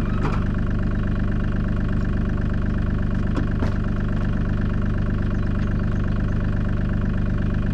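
Mini excavator's diesel engine idling steadily, with a few faint clicks or knocks in the first half.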